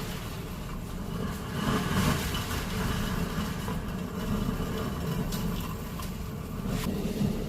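Typhoon wind and rain heard from inside a building: a steady low noise that swells in gusts, with a few faint knocks.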